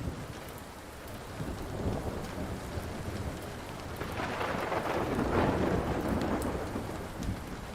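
Steady rain with a roll of thunder that swells about four seconds in and dies away toward the end, over a few faint ticks.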